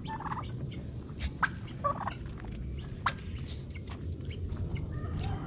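Poultry calling: scattered short clucks and calls, a few louder than the rest, over a steady low rumble.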